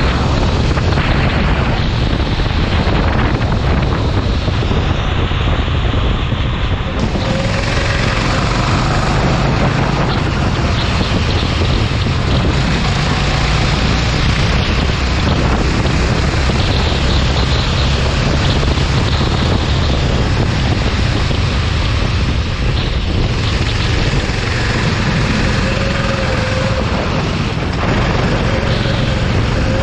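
Go-kart engine running under the rush of heavy wind buffeting on the microphone, with a faint engine pitch that rises and falls.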